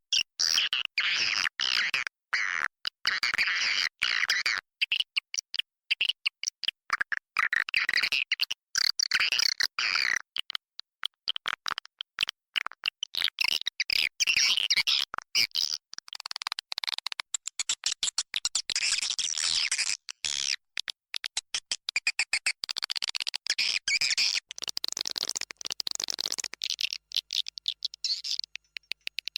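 Swiftlet lure call: edible-nest swiftlets chirping and twittering in a swiftlet house, dense rapid high chirps in overlapping runs with brief gaps. It is the call played to draw swiftlets in to roost and nest.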